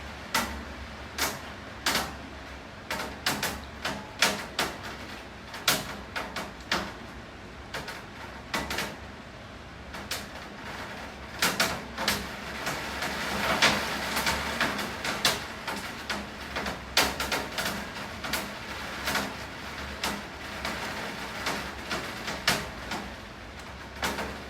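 Rain falling, with large drops knocking irregularly on a hard surface over a steady hiss of rainfall, heavier for a few seconds around the middle. A steady low hum runs underneath.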